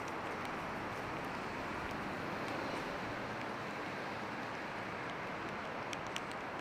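Steady rain on a city street, an even hiss, with a few sharp ticks near the end.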